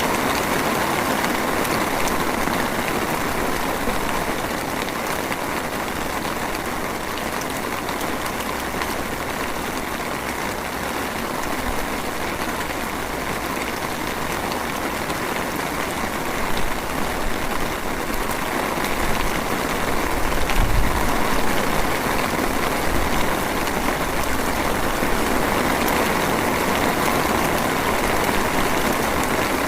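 Steady rain falling, an even hiss of drizzle with no let-up. About two-thirds of the way through, a low rumble swells for a few seconds and fades.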